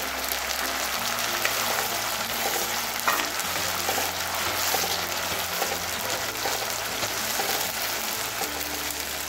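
Onion paste sizzling steadily as it fries in hot oil in a kadhai, with a spatula stirring through it.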